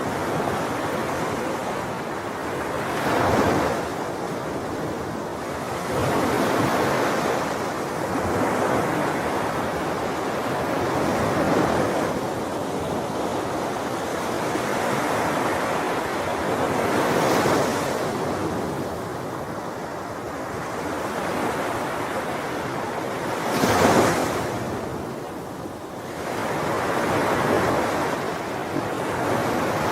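Sea waves washing onto a shore, each wave swelling and falling away every few seconds. The loudest wave breaks about three-quarters of the way through.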